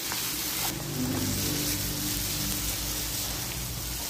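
Potato cubes frying in hot oil in a pan: a steady sizzle. Soft background music comes in about a second in.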